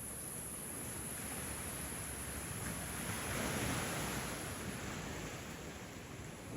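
Ocean surf: a wave washing in on the beach, swelling to its loudest about three to four seconds in and then falling away.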